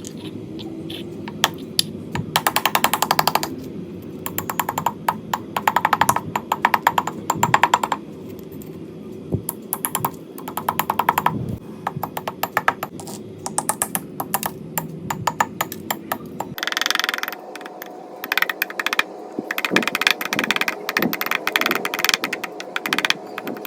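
Dry slate pencil and clay crunching in rapid crackly bursts, each lasting a second or two, again and again. A low hum underneath stops about two-thirds of the way through.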